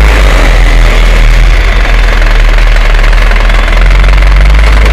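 A vehicle engine running steadily, heard loud from aboard the moving vehicle, with a heavy low rumble.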